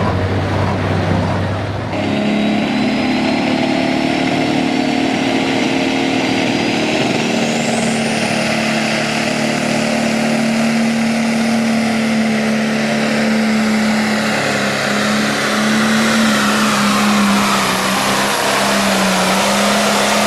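Pro Stock pulling tractor's turbocharged diesel engine at full throttle under load during a pull. A high turbo whistle climbs sharply about a third of the way in. In the last few seconds the engine note wavers and the whine falls as the engine loads down.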